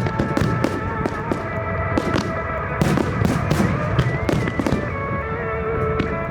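Rapid fireworks bursts and crackling, many reports in quick succession, over music.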